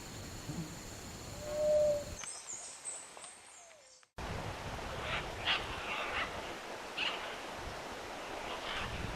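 Wild bird calls: a single low hooted note about a second and a half in, then, after a brief drop to near silence, a run of short calls repeated every half second or so.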